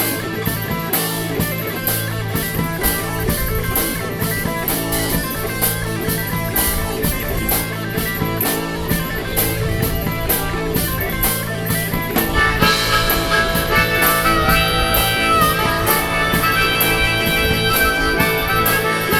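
Rock band playing an instrumental break, with guitar over a steady drum-kit beat. About two-thirds of the way through, a lead melody of held, bending notes comes in over the band.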